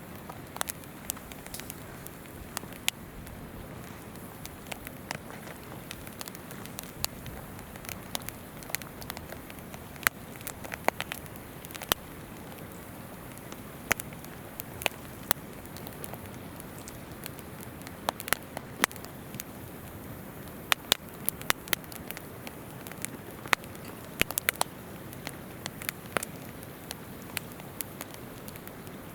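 Wood campfire crackling, with irregular sharp pops and snaps, over the steady rush of a flowing river.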